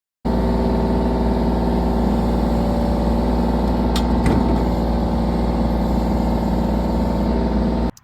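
Engine running steadily at a constant speed, an even hum with no revving, with two brief clicks about four seconds in.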